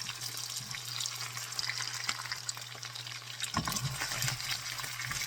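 Marinated chicken pieces sizzling and crackling as they deep-fry in hot oil, a steady dense crackle. A few soft knocks come in about three and a half seconds in, as the pieces are handled in the pan.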